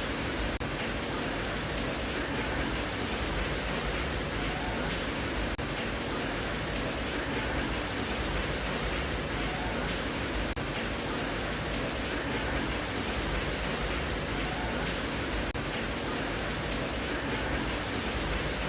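Steady rain, an even hiss of falling drops without let-up, with a faint brief dip about every five seconds.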